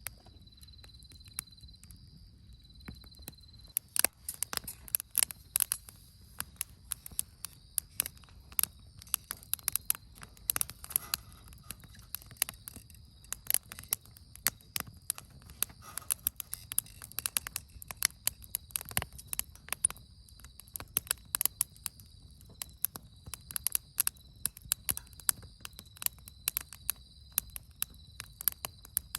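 Wood campfire crackling with many sharp, irregular pops, starting about four seconds in, over the steady trilling of insects.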